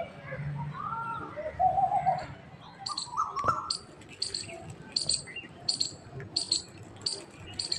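Bird calling: a few lower, arching calls in the first two seconds, then short high chirps repeated about one and a half times a second from about three seconds in.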